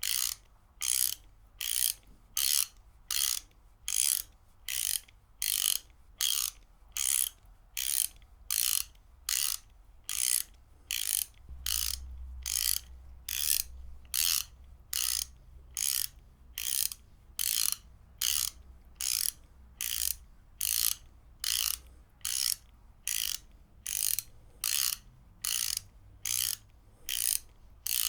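Ratchet wrench clicking in short, evenly spaced bursts, a little under two a second.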